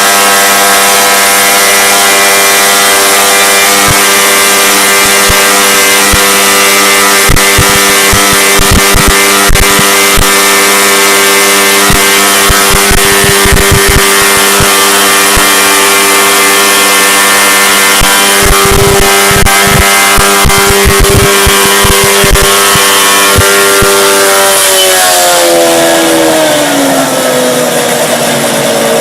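An engine held at high, steady revs, one unchanging pitch. About 25 seconds in the revs drop away and the pitch falls. Irregular low thumps come and go while it runs.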